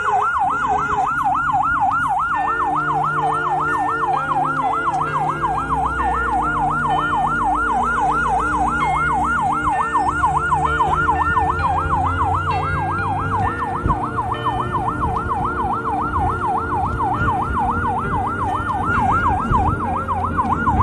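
Fire engine siren in fast yelp mode, its pitch sweeping up and down about three times a second without a break, with lower steady tones changing pitch beneath it.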